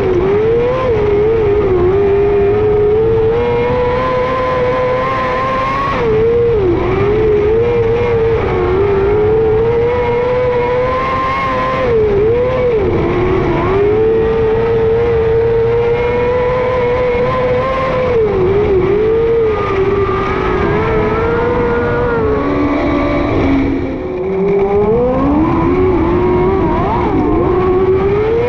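Micro sprint car's 600cc motorcycle engine at racing speed on a dirt oval, holding high revs with a brief dip in pitch about every six seconds as the throttle comes off for the turns. Near the end the revs fall low and the engine quiets, then climb steadily back up.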